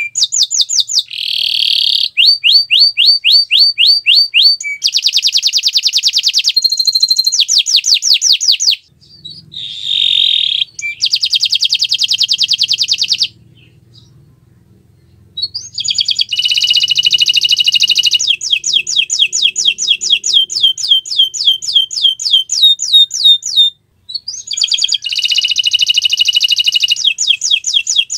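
Domestic canary singing: long, rapid trills and rolls in quick repeated phrases, broken by a few short pauses.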